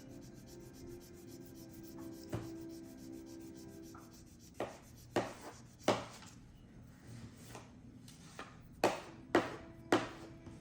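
Handling of small plastic parts and tools on a workbench: scattered sharp clicks and taps, most of them in the second half, over a faint steady hum.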